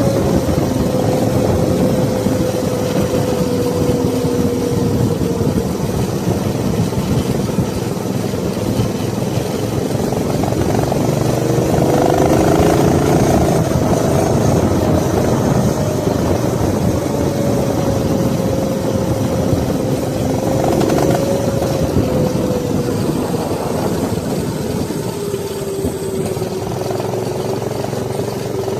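Mini bike's small engine running steadily under throttle, with wind rushing past. The engine note climbs briefly about twelve seconds in, settles back, and drops lower near the end as the bike eases off.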